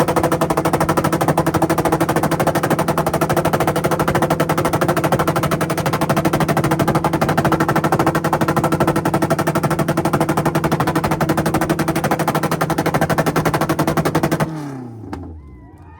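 Car engine held on a two-step launch-control rev limiter, crackling and popping rapidly and steadily at a fixed high rpm. About fourteen and a half seconds in it is let off and the revs fall away.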